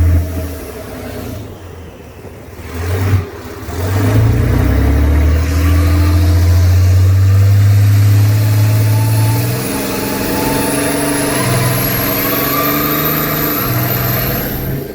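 Engine of a huge lifted mega truck running and revving: it rises to a loud steady run about four seconds in, then settles a little lower, with a faint high whistle slowly climbing in pitch.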